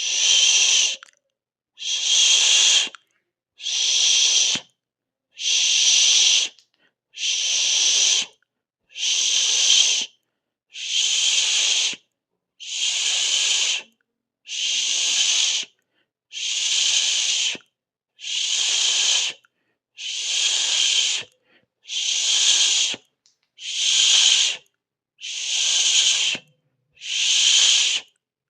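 A person hissing 'sss' through the teeth in even, rhythmic bursts of about a second each, roughly one every two seconds, with a short silence between them.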